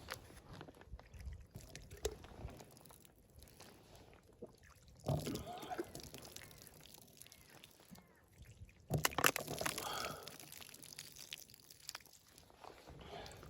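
Irregular crunching and knocking handling sounds, with two louder bursts about five and nine seconds in.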